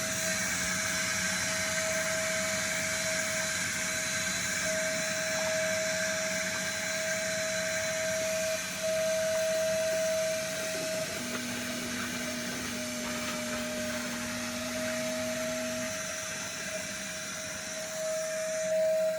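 Vacuum cleaner running steadily: a constant whine over a hiss. A second, lower hum joins for about five seconds past the middle.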